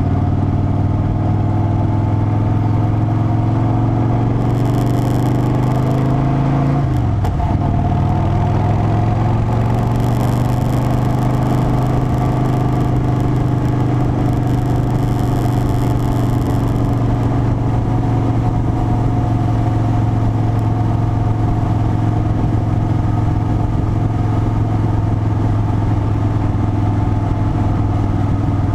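Harley-Davidson Softail Standard's V-twin engine running steadily while riding. Its note drops sharply once about seven seconds in, then holds steady at the lower pitch.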